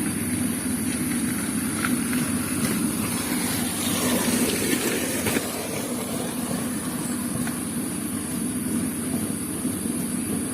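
A small engine running steadily with a constant low hum and a high whine. About four seconds in, a rougher, louder stretch rises over it and cuts off about a second and a half later.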